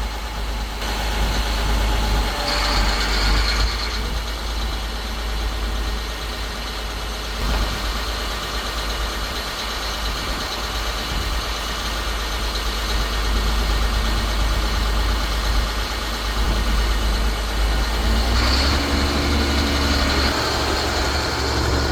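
A vehicle engine running steadily with a deep rumble, its sound shifting a few times.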